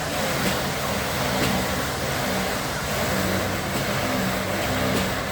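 A motor vehicle's engine running steadily, its pitch shifting slightly up and down.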